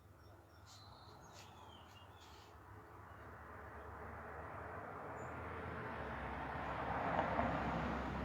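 A vehicle passing on a road, a steady rush of engine and tyre noise that swells to its loudest near the end. A few short bird chirps sound in the first couple of seconds.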